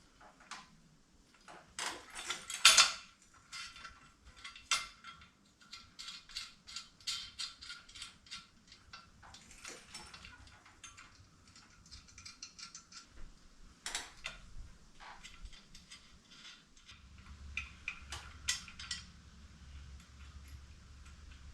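Socket ratchet clicking in quick runs as bolts on a steel transmission jack are tightened, mixed with metal clanks of tools and parts; the loudest is a sharp clank about three seconds in.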